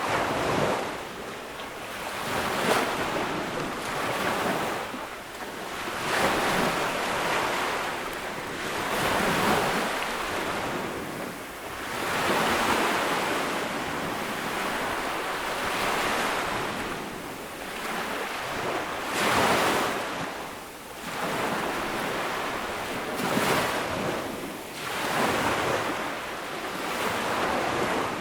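Ocean waves breaking and washing up a beach, one surge after another every few seconds.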